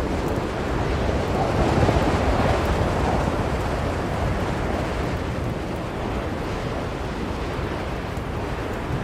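Blizzard wind blowing steadily, a gust swelling about two seconds in and then easing.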